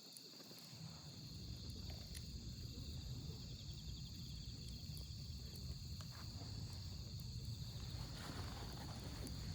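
Wood campfire burning with occasional faint crackling pops, over a low rumble that builds about a second in. Crickets chirp steadily in the background.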